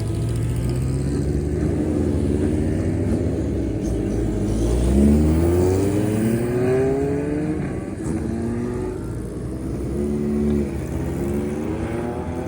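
Classic air-cooled inline-four motorcycle engines running through open exhausts. The revs are blipped so the exhaust note rises in pitch several times, loudest about five seconds in.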